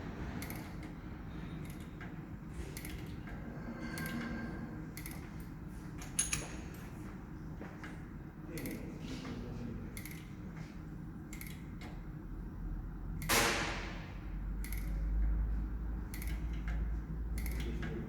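Scattered small clicks and knocks of metal parts and tools being handled, with one short loud hiss about thirteen seconds in and a low steady hum from shortly before it.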